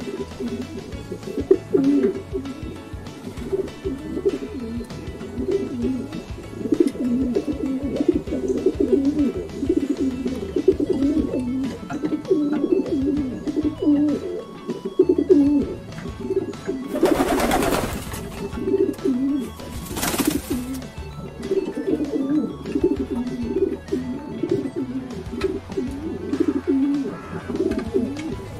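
Common wood pigeon cooing in repeated low phrases. Two short noisy bursts come about two thirds of the way through.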